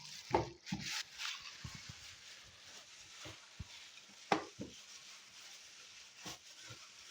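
Raw ground beef mixture being stirred and mixed in a bowl: soft, wet handling noise broken by a few sharp clicks.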